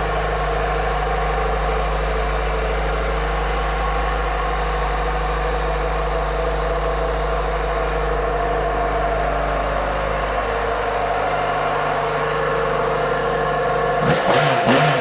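2006 Yamaha FZ6's 600 cc inline-four engine idling steadily. Near the end it gets quick throttle blips, the revs rising and falling.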